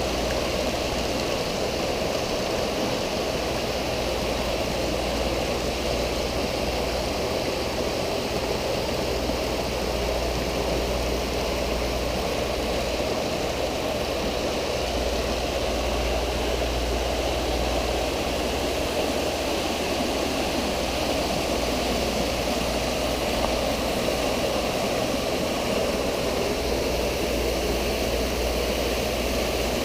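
Steady rush of water spilling and splashing from pool water features, with a low rumble underneath.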